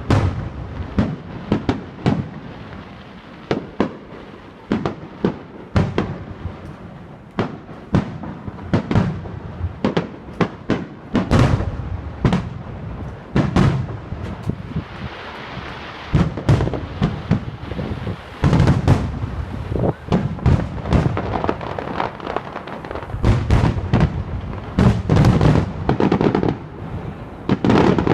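Fireworks display: a long run of loud explosions and cracks, single bangs at first, then rapid dense barrages about 11 s in, again around 18 to 20 s and from about 23 s on. There is a hissing crackle between the volleys about halfway through.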